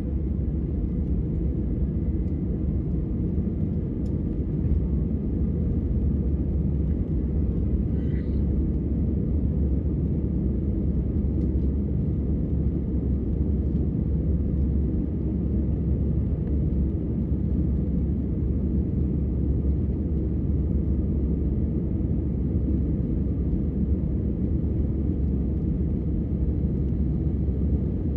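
Airbus A319 passenger cabin during takeoff and climb: the jet engines and the airflow give a steady, unbroken low rumble.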